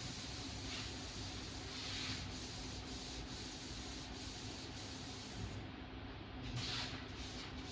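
800-grit sandpaper being rubbed over the car's body panel, a continuous scratchy hiss that swells with each stroke.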